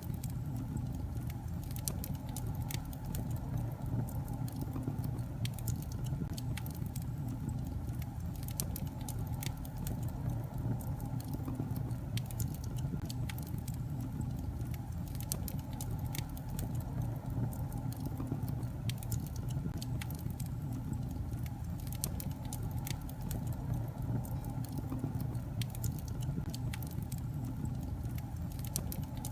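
Wood fire burning in a fireplace: a steady low rumble of flames with frequent small, irregular crackles and pops from the logs.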